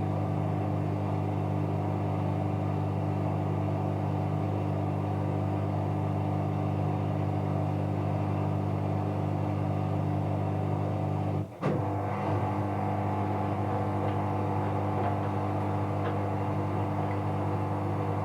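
Bauknecht Super Eco 7615 washing machine running with a steady hum at a constant pitch. The sound cuts out for a moment with a click about two-thirds of the way through, then carries on unchanged.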